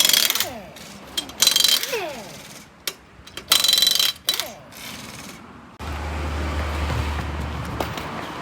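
Pneumatic impact wrench on wheel lug nuts, fired in three short bursts, winding down between them. About six seconds in, a steady low hum with hiss starts suddenly.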